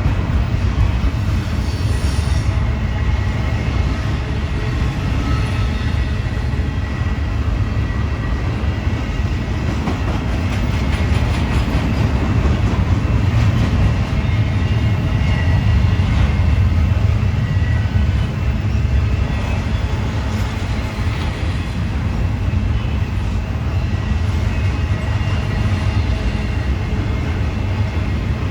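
Freight train cars rolling past on the rails: a steady, loud rumble with a faint high wheel squeal over it.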